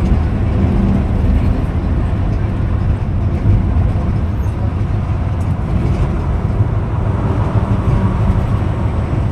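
Steady low rumble of a Scania Metrolink multi-axle coach cruising on a highway, heard from inside the bus: engine and tyre noise with no distinct events.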